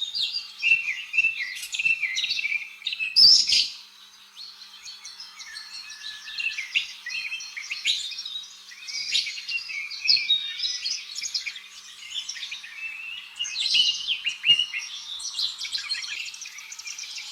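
Parrots chattering: a dense stream of quick high chirps and whistles, with a louder sharp call about three seconds in.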